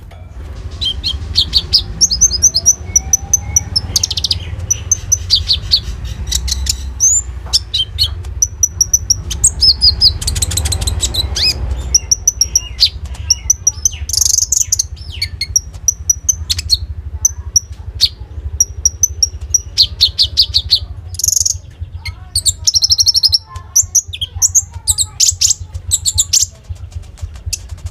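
Konin sunbird singing: a run of sharp high chirps and fast trills in bursts, a lively full song with mimicked phrases of other birds worked in.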